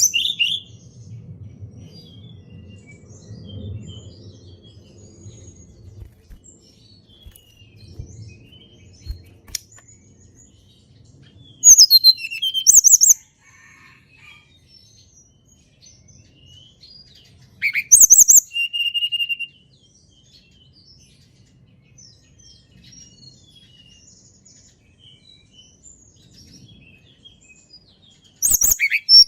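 Tledekan gunung singing: three short, loud song phrases about six seconds apart, each a quick flourish sweeping down in pitch, some ending on a brief held note. Faint scattered chirps fill the pauses.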